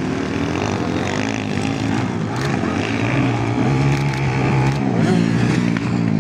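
Several motocross bikes' engines running at once, their pitch rising and falling as the riders open and close the throttle and shift.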